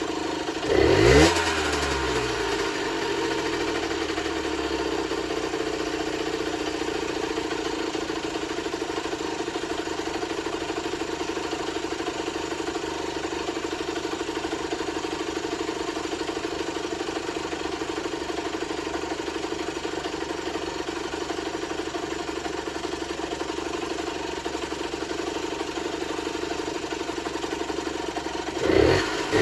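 Generic Trigger SM 50cc two-stroke single-cylinder engine idling steadily. It is blipped up and back down once about a second in, and revved again in quick blips near the end.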